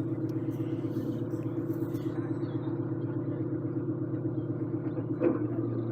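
Narrowboat's diesel engine running steadily with an even, pulsing beat, with a brief louder knock and a shift in its low tone about five seconds in.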